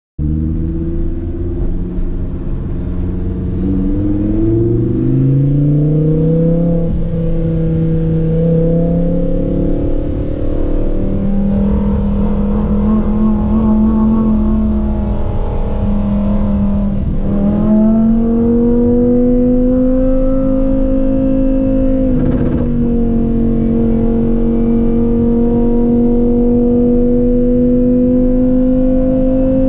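Lamborghini Huracan Performante's 5.2-litre V10 running at light throttle while cruising in second gear, heard from inside the cabin. Its pitch climbs in a few steps over the first several seconds, then holds nearly steady and rises slowly, with a short knock about two-thirds of the way through.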